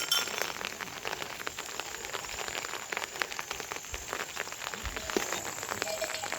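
Steady rain falling, a dense run of small drop impacts on a surface.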